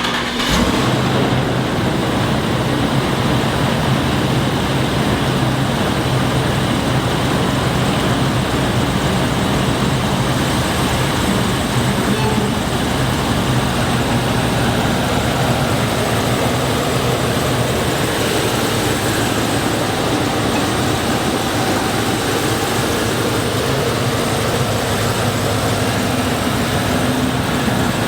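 A pickup truck's engine running steadily just after being started: a steady low hum under a loud, even rush of noise.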